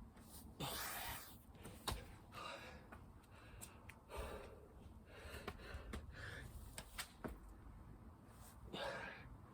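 A person breathing hard between exercise reps, with several loud breaths and a few sharp knocks.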